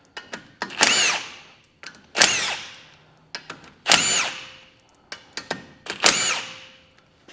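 Power drill turning a 10mm socket in four short bursts, spinning out the bolts of a Toyota Hilux free-wheeling hub cover one after another. Each burst rises in pitch and then winds down, with small clicks in between.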